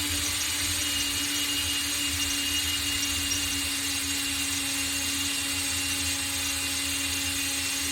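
Power drill running steadily at one speed, backing a screw out of a toggle wall anchor.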